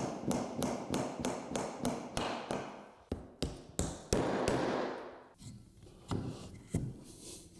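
Repeated tapping knocks on wood during woodworking, about three a second, the loudest about four seconds in. After about five seconds they thin out to a few scattered taps.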